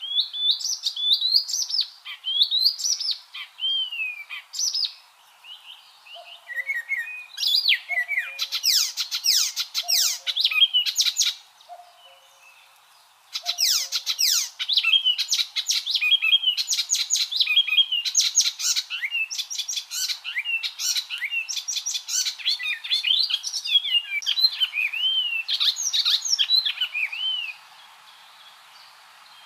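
Icterine warbler singing: a fast, varied song of rapidly repeated chattering notes and whistled glides, in long phrases with two short pauses, stopping near the end.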